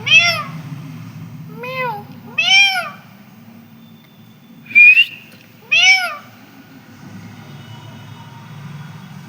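Pet parrot giving four short meow-like calls, each rising then falling in pitch, with a short sharp rising whistle about five seconds in.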